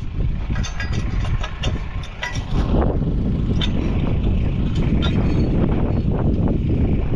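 Steady low rumble of a vehicle moving, with wind on the microphone, growing louder about three seconds in, and scattered light rattles and clicks.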